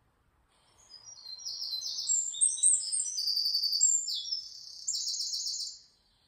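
A songbird singing: a string of high, rapid trilled phrases that jump between pitches, starting about a second in and stopping shortly before the end.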